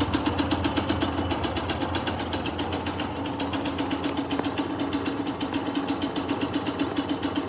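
Kawasaki KDX125SR's single-cylinder two-stroke engine idling steadily with a fast, even pulsing beat.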